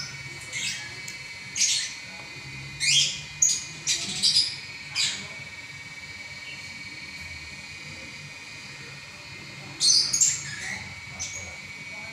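Lovebird chattering in its sustained song: bursts of sharp, high-pitched chirps and squawks, with a lull of a few seconds in the middle before another burst near the end.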